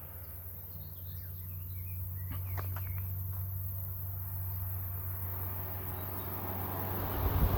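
Rural outdoor ambience: a few short bird chirps over a steady low rumble, with broad noise swelling near the end as a vehicle approaches.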